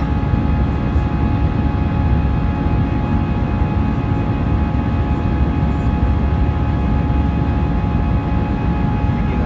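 Airbus A319 jet engines running steadily: a constant low rumble with several steady whining tones over it, unchanging throughout.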